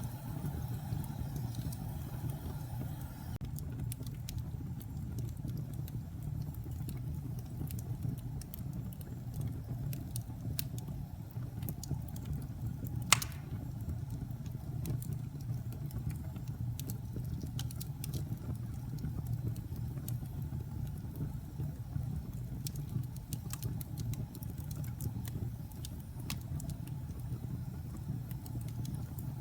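Wood fire crackling in a fireplace: scattered small pops and snaps over a low steady rumble, with one sharp, loud pop about thirteen seconds in.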